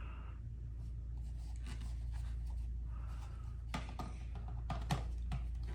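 Light plastic handling noise and a few soft clicks as the battery pack is fitted to the main body of a cordless stick vacuum, over a low steady hum.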